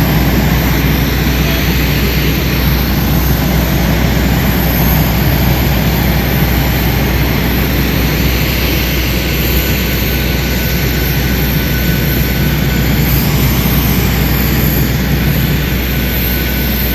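Steady cabin noise inside a Boeing 737-800 on the ground: a constant low hum under an even rush of air from the aircraft's systems, with no change in level.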